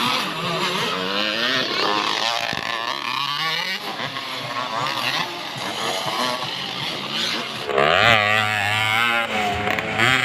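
Motocross bike engines revving up and down as they race, several at once, with one louder and closer from about eight seconds in.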